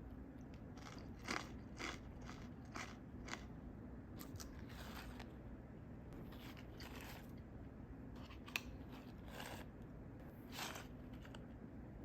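Kakinotane rice crackers crunching as they are bitten and chewed: a string of short, irregular crisp crunches.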